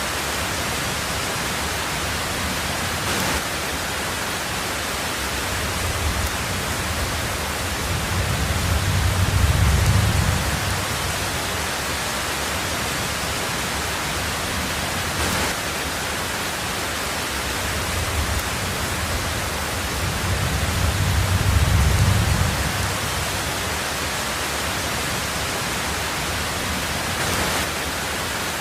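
Heavy rain falling steadily on a tin roof, an even hiss, with two low rolls of thunder that swell and fade, one about a third of the way in and another about three-quarters of the way through.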